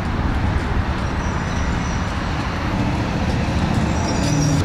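Steady low rumble of road and tyre noise with engine hum inside the cabin of a moving 2015 Škoda Octavia 1.4 TSI.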